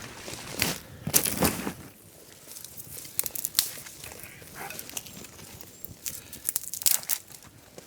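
Crunching, rustling noises for about the first two seconds, then scattered sharp crackles and clicks.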